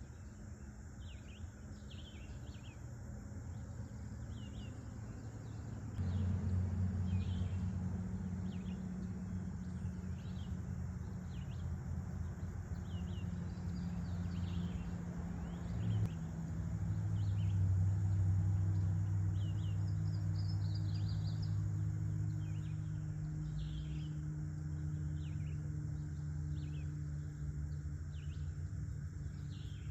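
Forest ambience: birds chirp in short calls, over and over, above a steady high insect buzz. About six seconds in, a low steady drone rises and becomes the loudest sound, like a distant engine.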